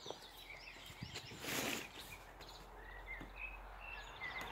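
Small birds chirping faintly in short calls, with a brief rustling noise about a second and a half in.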